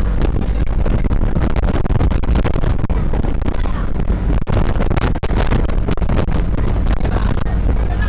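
Strong wind buffeting the microphone over the steady rumble of a boat under way, with irregular gusts and thumps throughout.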